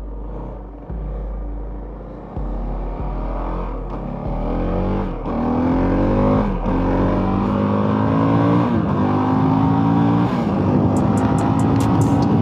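Honda CRF450RL's single-cylinder four-stroke engine accelerating up through the gears, its pitch rising and dropping back at each upshift and getting louder. Wind noise on the helmet-mounted mic runs under it.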